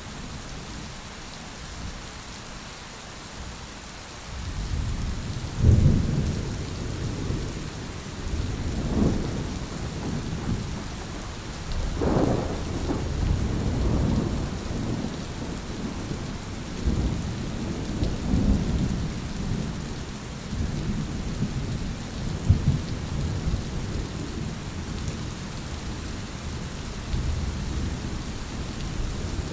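Steady rain hissing through a thunderstorm. Thunder is faint at first, then rolls in about five seconds in with repeated low rumbles that swell and fade, and several louder cracks among them.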